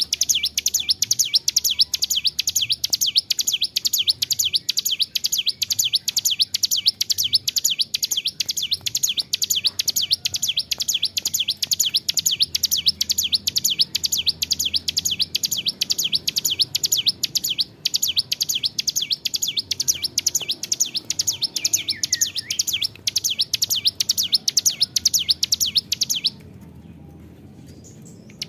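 Ciblek gunung (hill prinia) singing a long, unbroken run of fast, high repeated notes, the steady 'gacor' song used as a lure. It breaks off about two seconds before the end, then starts again.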